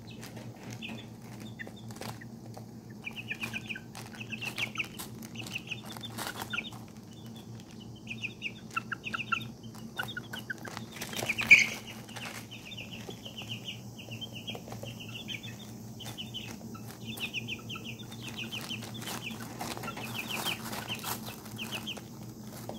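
Young chicks peeping, many short rapid trilled chirps one after another, with scattered light taps and one louder knock about halfway through, over a steady low hum.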